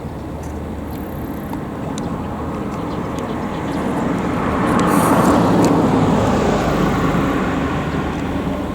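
A road vehicle passing by: a steady noise that builds to its loudest about five seconds in and then fades away.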